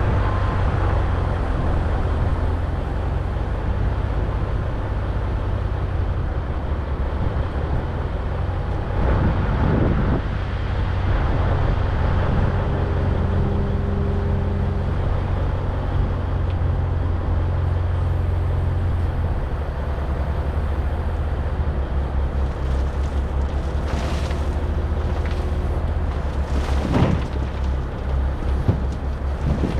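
A vehicle engine running steadily with a low rumble, its note changing about 19 s in, with short noisy rushes around 9 to 10 s and again near 24 and 27 s.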